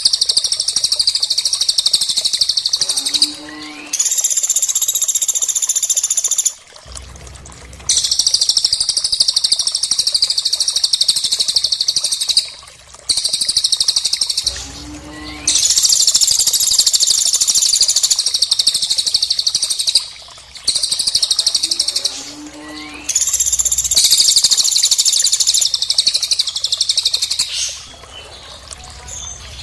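Recorded bird calls for song training: long, very rapid high-pitched trills lasting several seconds each, broken by brief pauses. A short rising whistle comes in between some phrases, and the sequence repeats as if looped.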